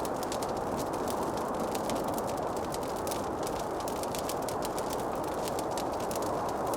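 Wood fire in a fireplace crackling: many small, sharp, irregular crackles over a steady rushing noise.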